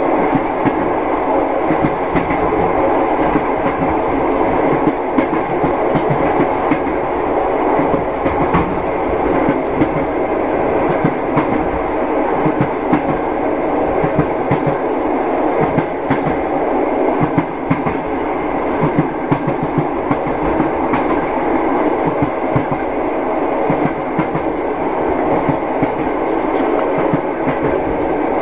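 Train wheels rolling over the rails: a steady rumble with frequent sharp wheel knocks scattered through it.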